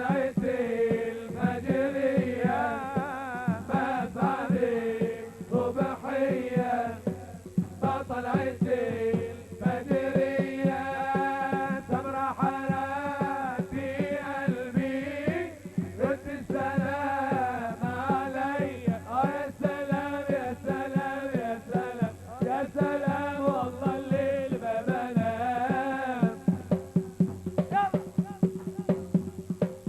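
Live Middle Eastern folk dance music: an ornamented, wavering melody line over a steady, dense drum beat. Near the end the melody drops away and the drumbeat carries on.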